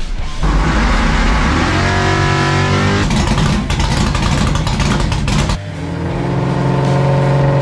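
Race car engine running hard under acceleration, its pitch climbing, dropping back at a gear change about three seconds in, then climbing again from about five and a half seconds in.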